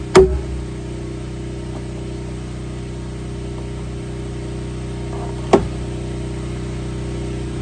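A steady engine drone with several low hum tones, broken by a sharp knock just after the start and another about five and a half seconds in.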